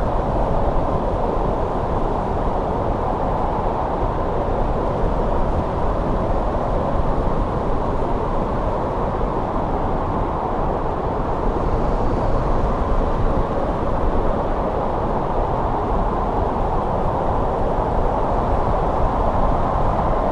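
Steady winter wind, a continuous low rushing noise without gusts or breaks.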